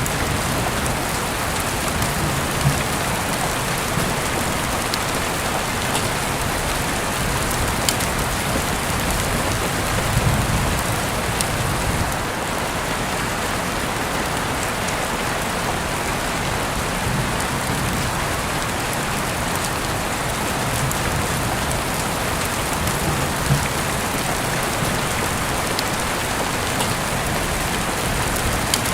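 Heavy rain falling steadily, a dense even hiss with scattered sharp drop ticks, heard through an open window. A few brief louder swells in the low end come and go.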